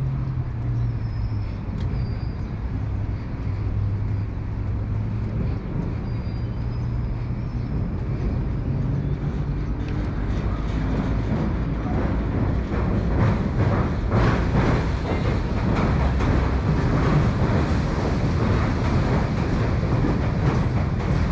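Train passing on the Sumida River railway bridge: a low steady rumble at first, then wheel clatter that grows louder from about halfway through.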